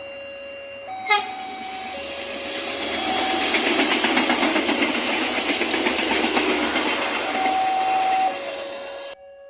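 A railway level-crossing alarm sounds, alternating between two tones, while a train passes close by with a loud rush of wheel and rail noise. The noise starts with a sharp click about a second in and cuts off abruptly near the end.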